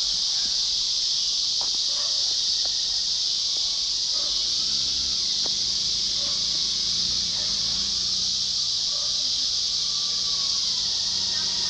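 Steady, high-pitched chorus of evening insects such as crickets and katydids. A low engine hum from an approaching vehicle joins faintly about four and a half seconds in.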